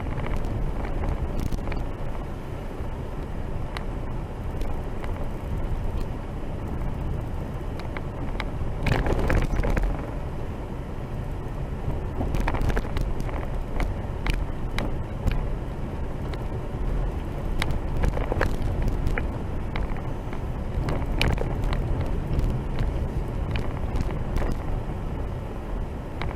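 Vehicle driving on a rough dirt road, heard from inside the cab: a steady low rumble with scattered knocks and rattles from bumps.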